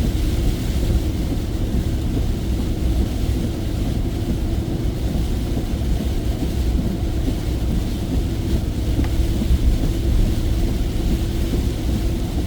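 Steady low rumble of a truck driving, heard inside the cab: engine and tyre road noise.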